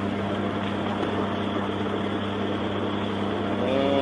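Steady low hum of an idling vehicle engine, with a constant low tone under a broad even noise.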